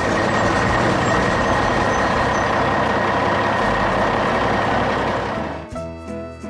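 A heavy truck or construction-machine engine sound effect running loud and steady, cutting off about five and a half seconds in as light cartoon music comes back.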